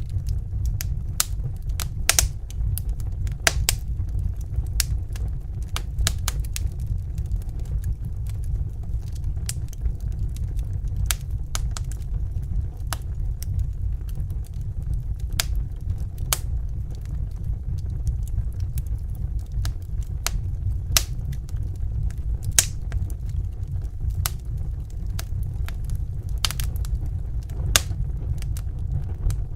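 Wood fire crackling in a fireplace: irregular sharp pops and snaps, a few of them louder, over a steady low rumble of the burning logs.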